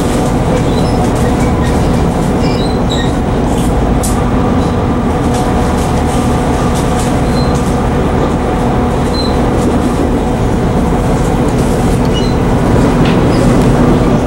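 Steady rumble of a moving passenger train heard from inside the car, with an even hum and light clicking from the wheels on the rails.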